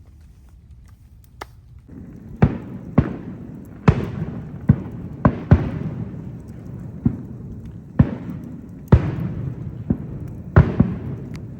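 A series of sharp bangs at uneven spacing, about one a second, each with a short echoing tail, over a steady rushing background that comes in about two seconds in.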